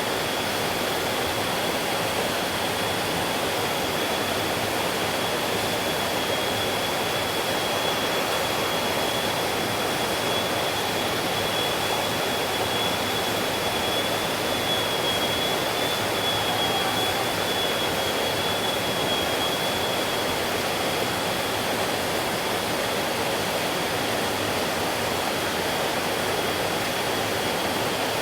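Mountain stream rushing over rocks: a steady, even rush of flowing water with no breaks. A thin, steady high tone sits above the water throughout.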